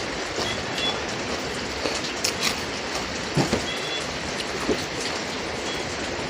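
Steady hiss of falling rain, with a few short sharp clicks and crunches from eating and several brief high chirps.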